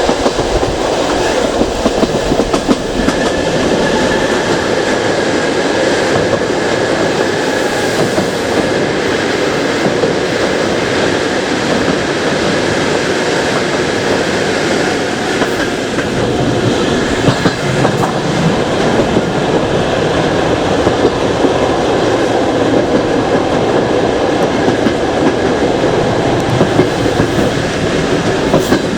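Passenger train carriage running along the track, a steady rumble with wheels clattering over the rails, heard from the carriage window.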